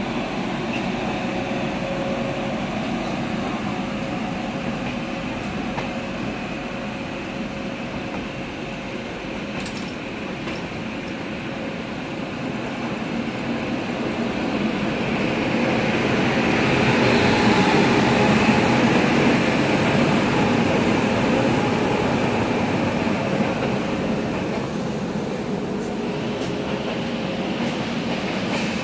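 Rail noise of trains passing close alongside on the next track, hauled by WAP7 electric locomotives: a steady rumble and hiss of wheels on rails that swells louder a little over halfway through and then eases.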